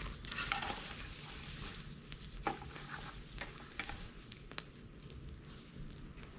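Bonfire of dried bamboo and brush crackling steadily, with a few sharper pops.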